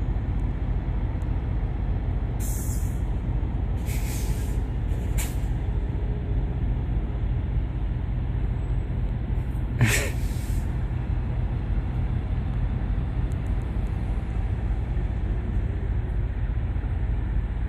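Idling diesel truck engines give a steady low rumble, broken by a few short hisses of air brakes, the loudest about ten seconds in.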